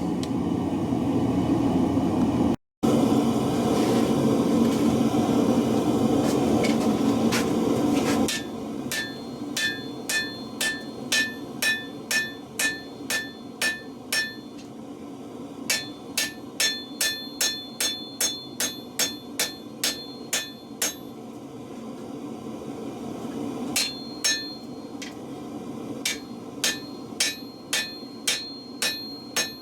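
A steady rushing noise, then a hand hammer striking hot leaf-spring steel on an anvil in runs of evenly spaced blows, about two a second, each blow ringing out. This is the forging of the blade.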